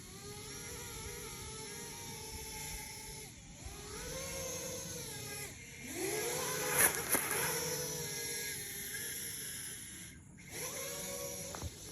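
FPV quadcopter's electric motors whining, the pitch rising and falling with throttle changes. A louder surge comes about seven seconds in, and the motors drop out briefly near ten seconds. The drone is running on a 3S lithium-ion pack, below the 4 to 6S it is built for.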